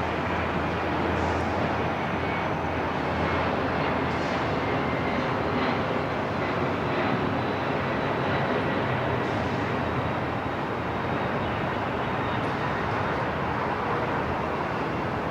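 Steady airport ambience: a dense, even wash of noise with faint high steady tones running through it and a few small distant ticks.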